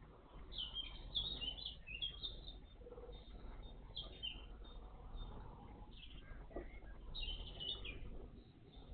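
Small songbirds chirping: several runs of short, high chirps with short gaps between them.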